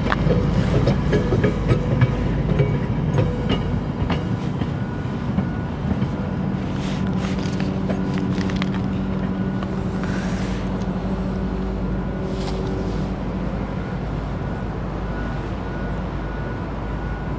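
Bilevel commuter train pulling away over the rails: wheels clicking over rail joints during the first few seconds, then a steadier rumble with a low hum from about six seconds in, slowly fading as it recedes.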